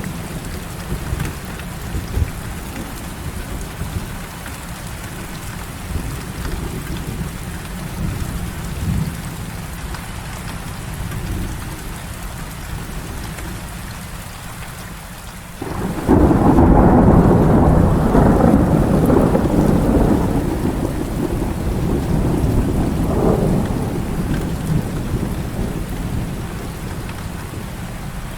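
Heavy rain falling steadily. About halfway through, a sudden loud clap of thunder breaks in and rolls on as a rumble for several seconds before slowly fading back under the rain.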